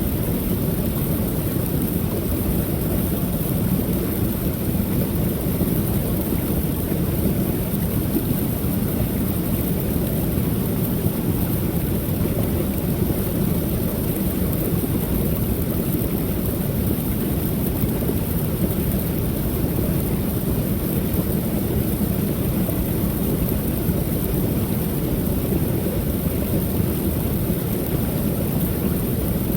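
Creek waterfall running: a steady, even rush of falling water, heaviest in its low, deep tones.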